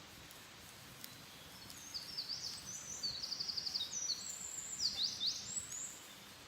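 A songbird singing one long song of about four seconds, a fast, varied run of rapid trills and quick rising notes, starting about two seconds in over a steady outdoor hiss.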